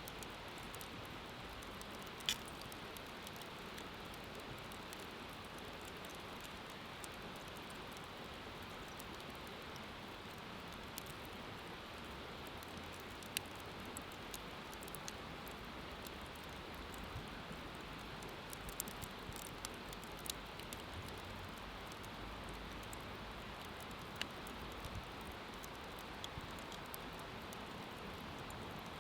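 Wood bonfire burning: a steady soft hiss with sparse sharp crackles and pops, a few scattered singly and a small cluster a little past the middle.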